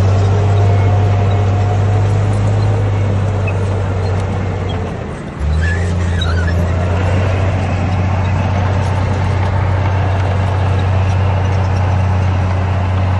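Komatsu D58P bulldozer's diesel engine running steadily with a deep, even hum. The note fades briefly about five seconds in, then comes straight back.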